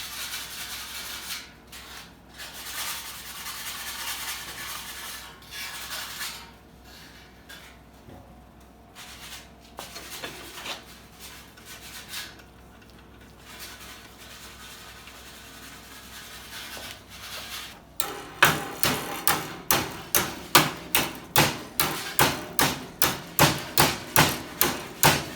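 Sheet metal of a cut tinplate can being worked by hand: irregular rasping and rubbing strokes of burrs being filed off the cut edges. About 18 seconds in, steady hammering on the metal starts, sharp knocks at roughly three a second.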